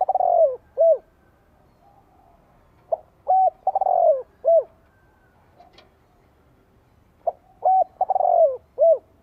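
Spotted dove (cu gáy) singing its cooing song: the phrase repeats about every four seconds, each time a couple of short coos, a longer coo falling in pitch and a closing coo. This is the territorial call that a male decoy dove gives to draw in wild males.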